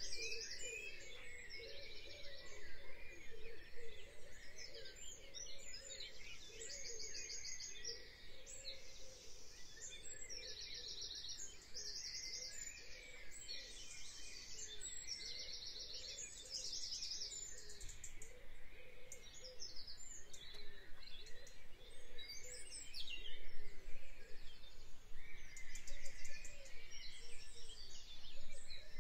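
Birds chirping: short, high trilled calls repeating every second or two, over fainter lower calls.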